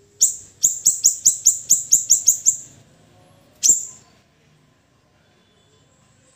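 Siri-siri (small minivet) calling in short, sharp, high chirps. One chirp comes first, then a fast run of about ten at roughly five a second, and a single chirp a second later. It is a recorded lure call used to set captive birds singing.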